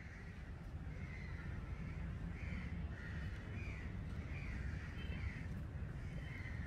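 A bird giving a run of short, harsh caws, about one or two a second, over a steady low rumble.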